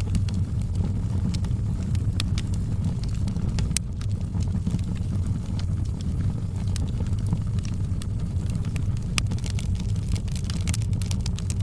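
Wood fire burning in a fireplace: a steady low roar of the flames with scattered sharp crackles and pops, coming thicker near the end.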